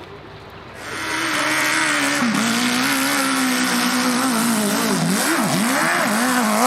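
Motorcycle engine running hard at high revs, its pitch dipping and climbing back several times, as with throttle changes or gear shifts.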